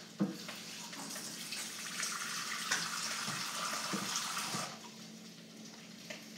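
Kitchen tap running while items are rinsed under it, with a few knocks of utensils, then turned off after about four and a half seconds.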